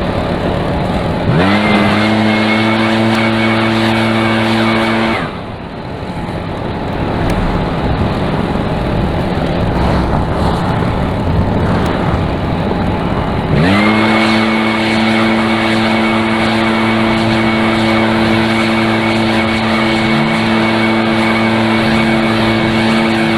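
Small two-stroke engine of a handheld lawn tool revving up to a steady high-pitched full throttle, dropping back to idle for several seconds, then revving up again about halfway through and holding.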